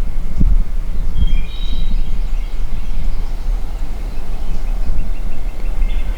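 A loud, uneven low rumble on the microphone, with faint songbird chirps and trills over it, most clearly one to two seconds in and again near the end.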